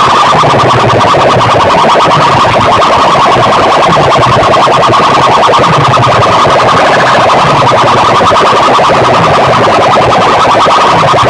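Competition sound-system track blasted at full volume through PA horn speakers: a distorted, alarm-like electronic siren tone with a fast pulsing warble over a bass sweep that repeats about once a second.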